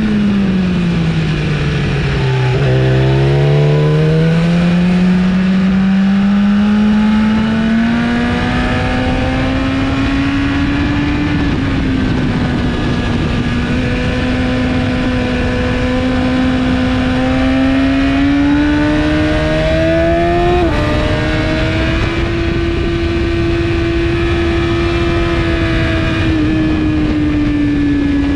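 2017 BMW S1000RR inline-four with a full Akrapovic exhaust, running hard at track speed. The revs fall over the first couple of seconds, then climb steadily, with a brief dip for a gear change about a third of the way in and another about two-thirds in, and hold high toward the end. Wind rushes over the microphone throughout.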